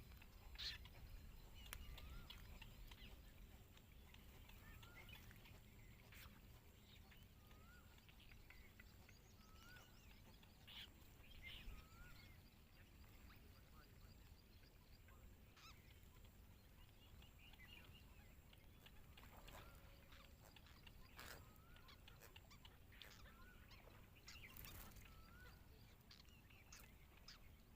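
Faint bird calls: short chirps with an upward twist, repeated every second or two in a run early on and again in the second half, with scattered clicks.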